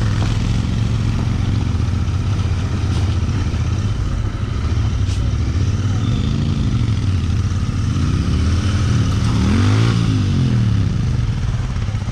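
Royal Enfield Interceptor 650's parallel-twin engine running at low road speed under a steady rushing noise. The engine pitch rises and falls with the throttle once about halfway through and again more strongly near the end.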